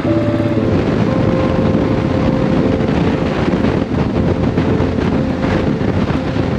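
Kawasaki KLR650's single-cylinder engine running under way, with heavy wind rushing over the microphone.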